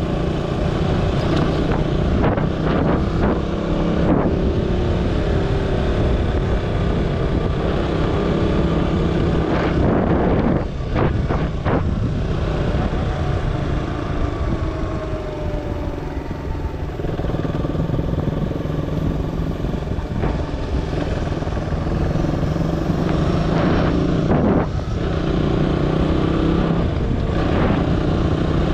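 KTM Duke 200's single-cylinder engine running as the motorcycle is ridden along a dirt lane, its pitch rising and falling with the throttle. A few sharp knocks come about ten seconds in and again near the end.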